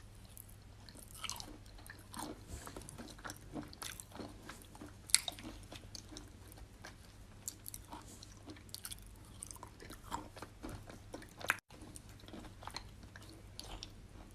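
Close-up chewing and biting of wet chalk mixed with clay paste: irregular soft crunches and wet clicks, with one sharp, loud crunch about five seconds in.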